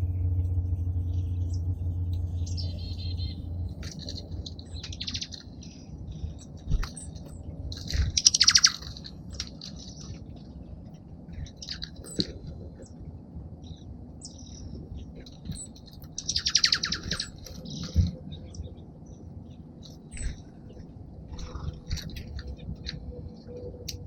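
Small songbirds at a backyard feeder chirping and calling, with two louder, rapid chattering calls about eight and sixteen seconds in. A low hum fades out over the first few seconds, and a few soft knocks sound now and then.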